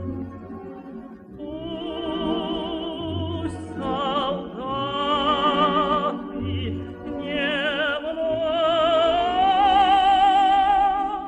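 A classically trained voice with strong vibrato sings long held notes over instrumental accompaniment, with a bass line underneath that comes and goes.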